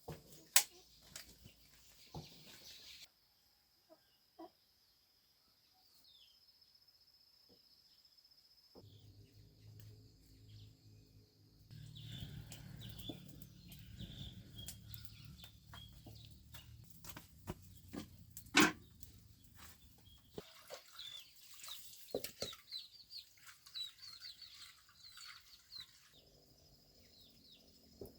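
Chickens clucking among scattered sharp knocks and clicks, with a low hum for about ten seconds in the middle; two sharp knocks, one near the start and one about two-thirds through, are the loudest sounds.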